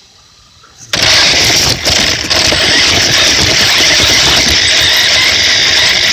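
Radio-controlled cars starting off: after a quieter first second, a sudden loud rush of motor whine and rough tyre and ground noise that runs on steadily.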